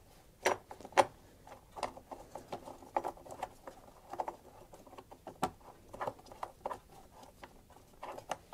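Irregular light clicks and taps of small metal parts and hand tools being handled while the battery clamp and its bolt are fitted, with a few sharper knocks, the loudest about a second in and about five and a half seconds in.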